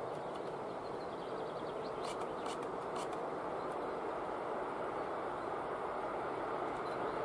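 Distant approaching electric train on a German main line: an even rumbling noise that grows slowly louder as it draws nearer.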